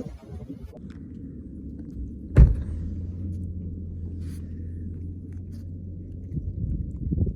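Low rumbling with one loud thump about two and a half seconds in, followed by a steady low hum for a few seconds and a few softer knocks near the end.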